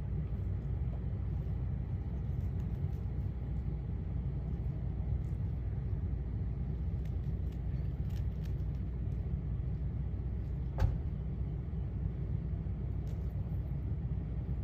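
Steady low rumble, with a few faint ticks and a single sharp click about eleven seconds in.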